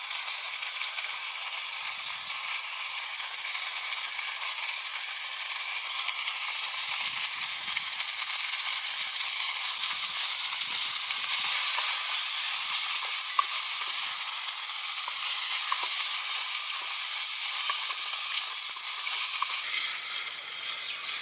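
Food frying in a hot pan: a steady sizzle with a few small pops, growing a little louder about halfway through.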